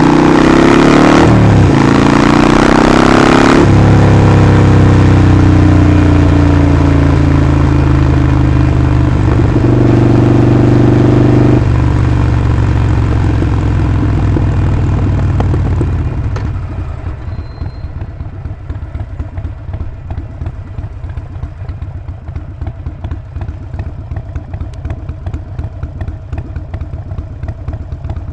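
Harley-Davidson Sportster Forty-Eight's 1200 cc V-twin: revving and shifting through the first few seconds, then running steadily. About halfway through it eases off and settles to a quieter, pulsing idle.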